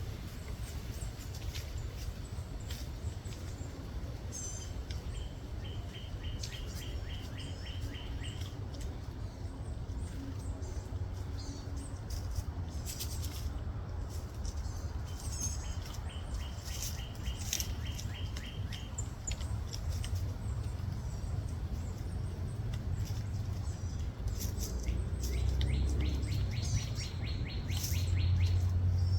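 Small birds calling: three trills of rapid, evenly repeated high notes, each about three seconds long and roughly ten seconds apart, among scattered short high chirps, over a steady low rumble.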